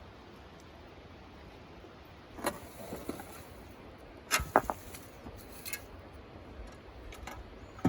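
A few scattered short knocks and clicks over a quiet background, the loudest a quick pair about four and a half seconds in.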